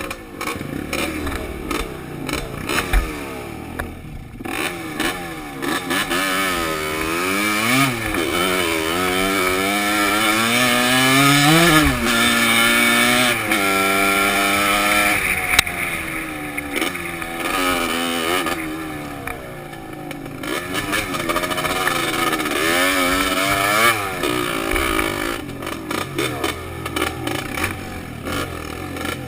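Dirt bike engine on a trail ride, heard from a helmet-mounted camera, its pitch rising and falling repeatedly as the throttle opens and closes, highest about eight and twelve seconds in.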